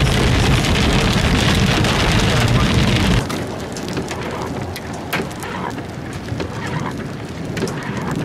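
Rain on a moving car heard from inside, with a steady low road rumble. About three seconds in it cuts abruptly to quieter rain falling in the open, with many separate sharp drop hits close by.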